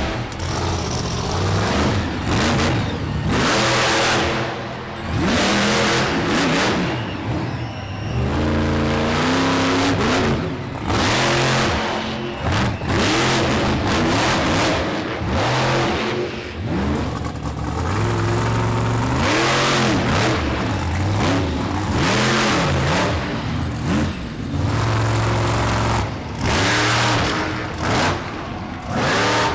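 Monster truck engines revving hard over and over, the pitch swooping up and down with each burst of throttle.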